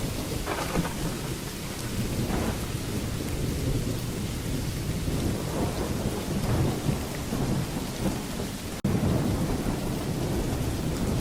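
Heavy steady rain with a continuous low rumble of thunder underneath and scattered brighter spatters of drops. About nine seconds in, the sound drops out for an instant and then comes back a little louder.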